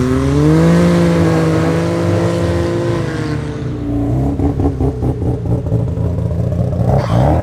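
Car engine revving up in the first second, holding high revs for about two seconds, then dropping back to an uneven, pulsing idle; near the end the revs climb again.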